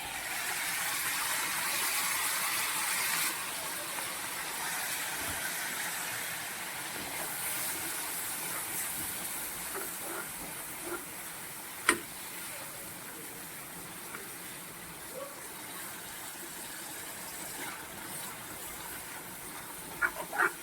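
Spices and cumin sizzling in hot oil in a pan for a fish curry masala, loudest in the first three seconds and then settling to a steady, quieter sizzle. A single sharp knock, such as a utensil against the pan, about twelve seconds in.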